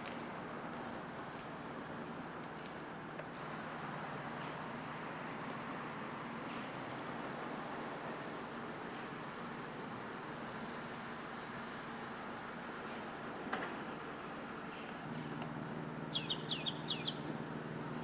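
Outdoor ambience with steady hiss. An insect's high, fast-pulsing trill carries on for most of the stretch and stops suddenly. Near the end a bird gives a quick series of five or so short downward chirps.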